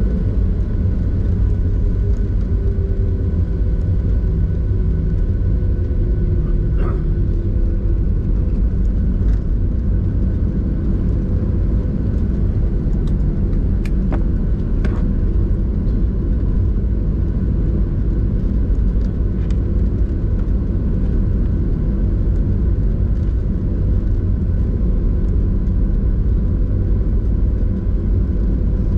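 Steady low cabin rumble of a Boeing 737-800 taxiing on the ground, with its CFM56-7B engines at idle. A few steady hum tones sit on top of it, a whine slides slowly down in pitch over the first several seconds, and there are a few faint clicks.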